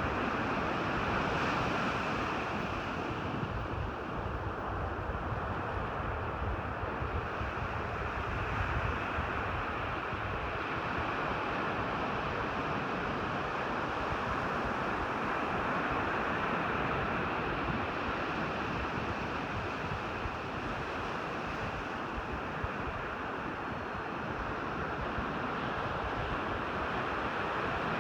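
Ocean surf washing onto the beach in a steady roar of noise, with wind buffeting the microphone in low rumbles.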